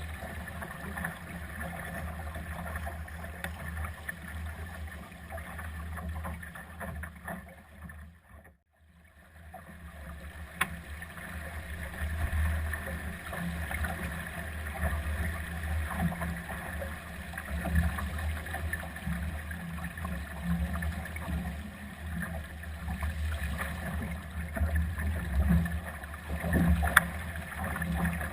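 Gusty wind buffeting the microphone over water rushing past the hull of a Solo sailing dinghy under way. The rumble dies away almost completely for a moment about eight seconds in, then builds again, with a couple of sharp knocks.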